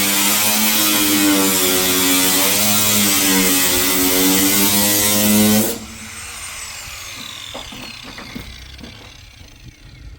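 A small motor runs loudly with a wavering pitch, then cuts off abruptly a little past halfway. Faint knocks and a thin falling whine follow.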